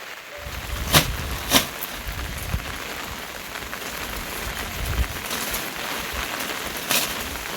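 Steady rain falling, with a few sharp, louder drip impacts about a second in, again shortly after, and once near the end, over a low rumble.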